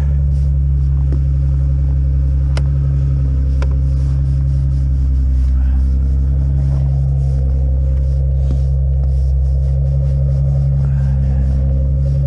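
Ford rear-wheel-drive car's engine idling steadily while warming up in the cold, a low even hum with a couple of faint clicks.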